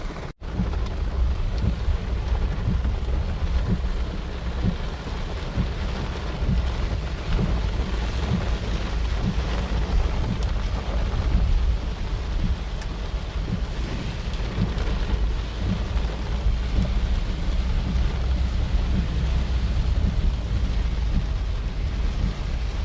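Heavy rain pouring down steadily, under a constant deep rumble. A brief dropout comes just after the start.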